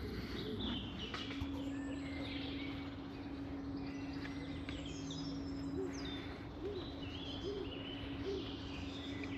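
Outdoor birdsong: several small birds chirping and trilling, with low cooing notes repeating about once a second in the second half. A faint steady low hum runs underneath from about a second in.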